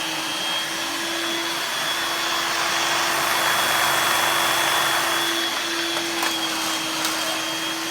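Dirt Devil stick vacuum running steadily: a motor hum and a high whine over a rushing airflow sound, swelling a little around the middle.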